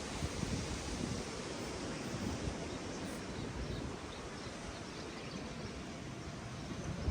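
Beach ambience: a steady wash of ocean surf with wind on the microphone.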